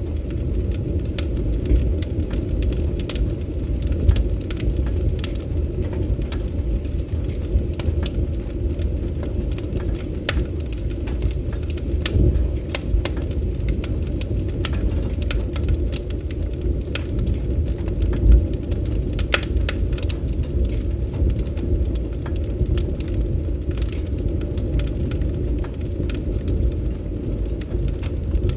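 Wood fire crackling, with frequent sharp pops and snaps over a steady low rumble of the flames; one louder pop about two-thirds of the way through.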